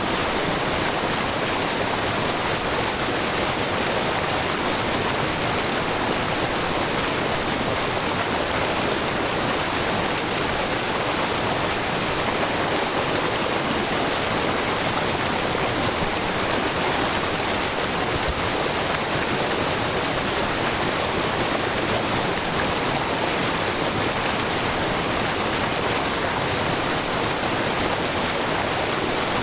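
Wide, low waterfall made of many thin streams of spring water pouring over a rock face, with a babbling brook below, giving a steady, even rush of water.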